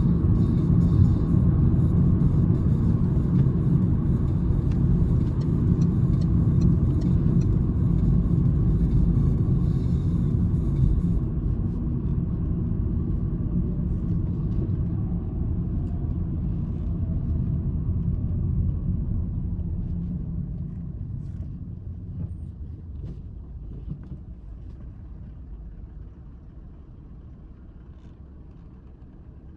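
Citroen C-Elysee's 1.2 PureTech EB2 three-cylinder engine and road rumble heard from inside the cabin while driving, a steady low drone that grows quieter over the last third.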